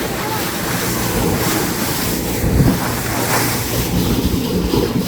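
Boat under way at sea: a steady engine hum under wind buffeting the microphone and water rushing and splashing past the hull.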